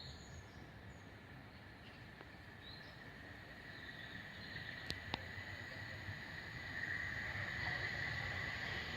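Quiet outdoor background with a steady high-pitched whine that grows louder in the second half. Two sharp clicks come close together about five seconds in.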